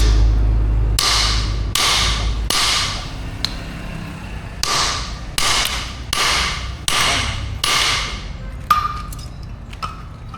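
Hand hammer striking metal on an anvil while forging an axe head: a run of separate blows, a little under two a second, each with a short metallic ring. A low steady hum stops about two and a half seconds in.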